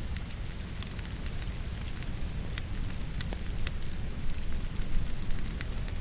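Wood logs burning in a fireplace, with irregular sharp crackles and pops, over a steady hiss of falling rain.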